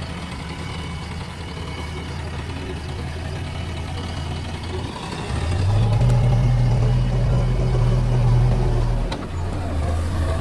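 Diesel engine of a JCB 3DX backhoe loader running steadily, then revving higher about five seconds in and dropping back to its working speed about four seconds later.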